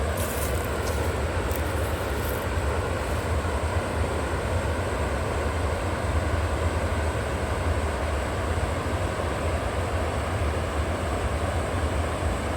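River water rushing steadily, an even noise with a deep low rumble underneath and a few faint high crackles in the first couple of seconds.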